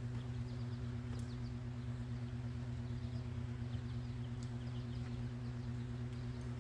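A steady low hum, with faint short bird chirps and an occasional light click over it.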